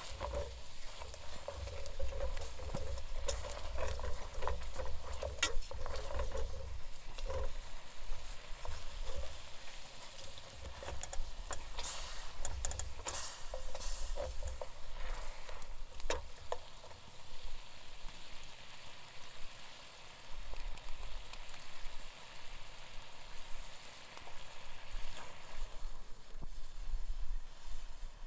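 Food sizzling in a pan while being stirred: a steady hiss with scattered sharp clicks and scrapes of the utensil.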